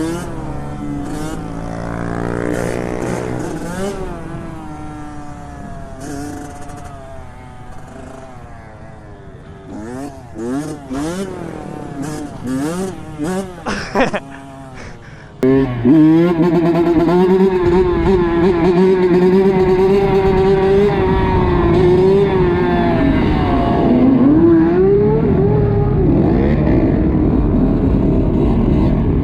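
Small motorcycle engines revving up and down, their pitches rising and falling and crossing as bikes go by. About halfway through the sound jumps louder to one close engine held at a steady high pitch, which dips once and climbs again.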